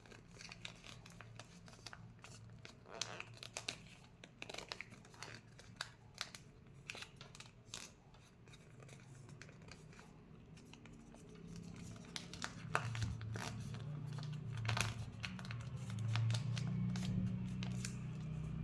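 Sheet of paper rustling and crinkling in the hands as it is folded and its tip tucked in, with many short crisp crackles. A low hum comes in underneath from about twelve seconds in.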